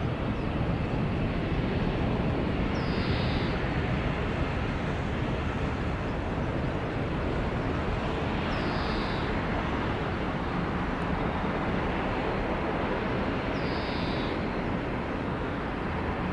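Jet engine noise from an Airbus A330 airliner climbing away after takeoff: a steady, even roar that slowly fades.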